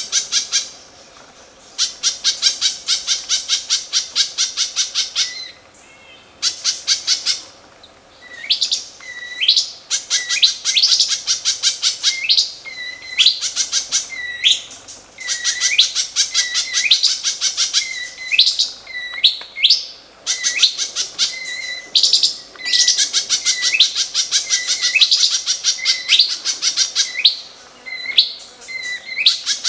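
A caged songbird singing a 'tembak kasar' song: long runs of rapid, harsh staccato notes fired off several seconds at a time, alternating with short rising whistled notes repeated about once a second.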